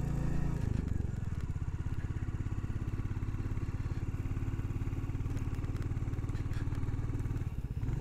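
Royal Enfield Classic 350's single-cylinder engine running at low revs, each firing beat distinct. The note changes about a second in and dips briefly near the end.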